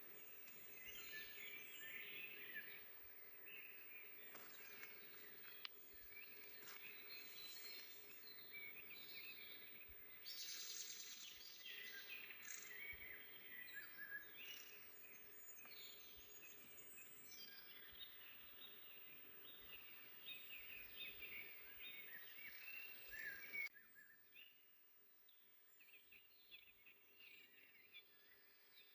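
Several songbirds singing and chirping over a soft forest background, many short overlapping calls. About 24 s in the sound cuts abruptly to a quieter stretch with fainter, sparser chirps.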